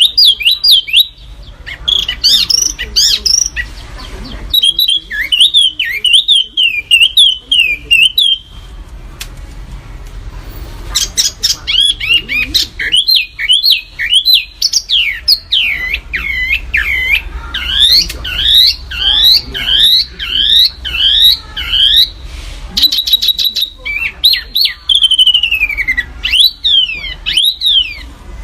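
A songbird singing loud, dense runs of sharp, rapidly repeated whistled notes that sweep up and down, the rapid-fire 'tembakan' style of song kept as masteran for training caged songbirds. The song pauses briefly about a third of the way in, over a steady low hum.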